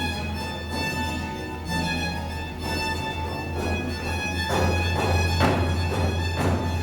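Baroque early-music ensemble playing a colonial Peruvian tonada, led by violin over a steady accompaniment. Several sharp strikes come from about four seconds in.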